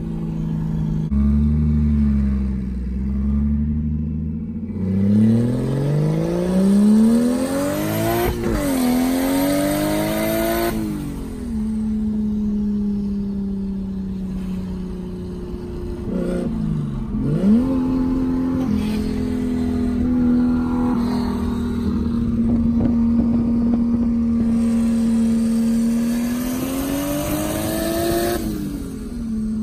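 Car engine heard from inside the cabin under hard acceleration: it revs up, drops in pitch at a gear change, revs up again, then settles into a steady cruise. It revs up once more near the end.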